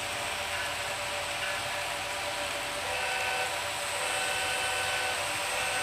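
HO scale model trains running: a steady whir and hiss of small electric locomotive motors and wheels on the track, with thin high tones that come and go.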